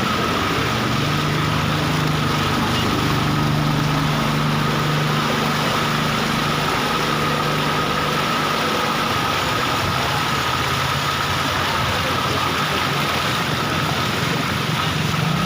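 Flood water rushing steadily, heard as a loud even hiss, with a low engine-like hum underneath that is strongest in the first half.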